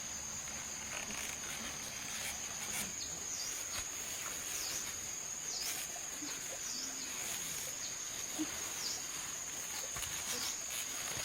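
A steady high-pitched insect drone, such as crickets or cicadas, with short falling chirps repeating about once a second.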